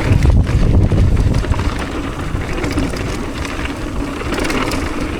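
Wind buffeting the action camera's microphone during a mountain-bike descent, with tyre noise and small clicks and rattles from the bike on the trail. The buffeting is heaviest for about the first two seconds, then eases.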